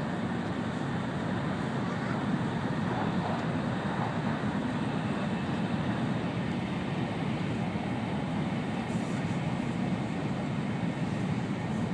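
Steady running noise of an N700-series Shinkansen at speed, heard inside the passenger cabin: an even low rushing noise with no breaks.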